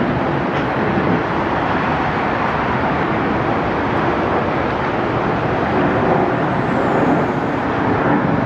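Jet airliner engines: a loud, steady roar.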